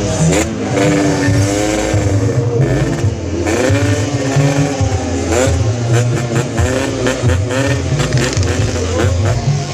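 Yamaha RX-King single-cylinder two-stroke motorcycle revved through its exhaust in repeated throttle blips, the pitch swooping up and falling back about once a second.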